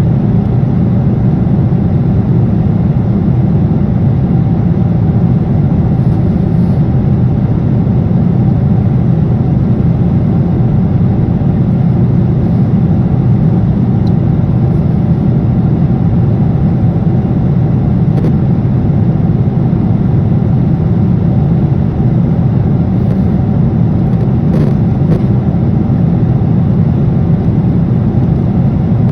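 Steady cabin noise of an airliner in flight: engine and airflow noise, a loud, even low rumble that does not change.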